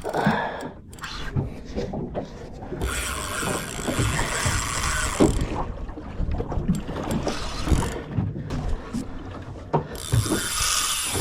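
Fishing reel being cranked, its gears and ratchet clicking, while a fish is fought on the line. Two stretches of hissing noise come through, one around the middle and one near the end.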